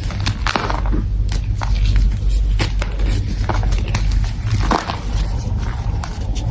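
Gym chalk being crushed and crumbled close to the microphone: irregular crunches and crackles over a low rumble.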